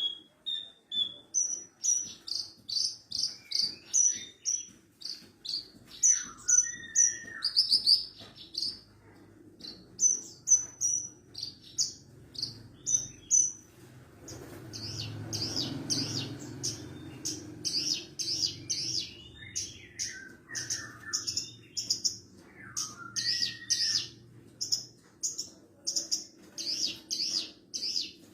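Branjangan parva, the Horsfield's bush lark subspecies Mirafra javanica parva, singing a rapid, unbroken song of high chirping notes several times a second, mixed with a few lower slurred whistles. A faint low hum lies underneath.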